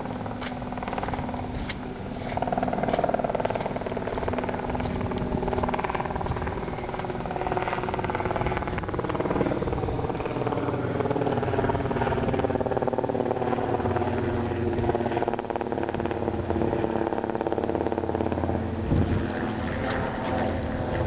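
A car's engine running as the car moves slowly, its note drifting gently up and down. It grows louder about two seconds in.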